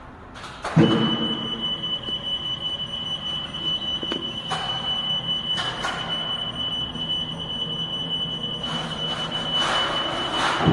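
Bravi Sprint order picker starting up with a thump about a second in. A steady high-pitched warning tone then sounds continuously over the low hum of its electric drive, with a few knocks as it moves.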